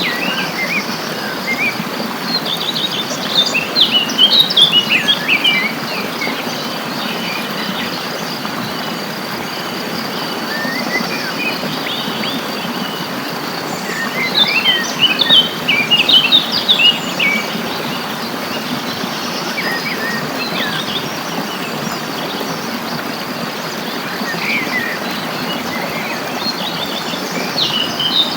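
Songbirds singing in bursts of quick, twittering phrases, loudest about four seconds in, again mid-way and near the end, over a steady high-pitched insect trill and a constant background hiss.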